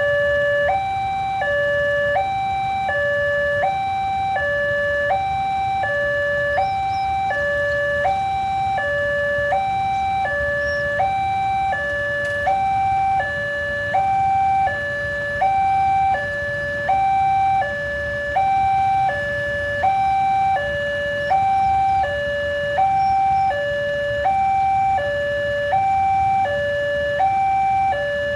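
Railway level-crossing warning alarm sounding its steady two-tone signal, a higher and a lower note alternating about every 0.7 seconds, over a low rumble.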